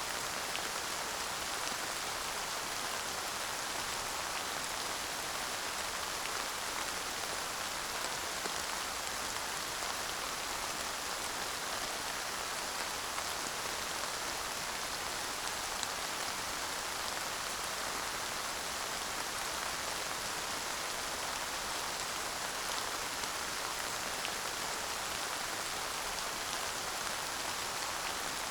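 Steady light rain falling, an even hiss of drops with faint scattered ticks of individual drops, no thunder.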